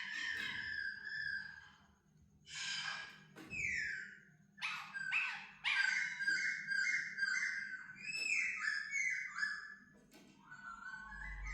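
Laughingthrush singing a varied run of clear whistled phrases, with sliding notes and quick runs of repeated notes, broken by short pauses about two and four seconds in. A low rumble comes in near the end.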